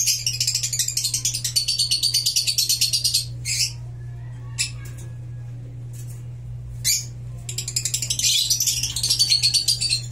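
Lovebirds chattering: two long runs of rapid, high-pitched chirps, with a few single chirps in the pause between them.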